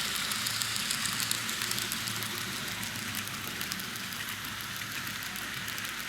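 N scale model trains running on the track: a steady low motor hum with a rapid, irregular patter of small clicks from the wheels rolling over the rails.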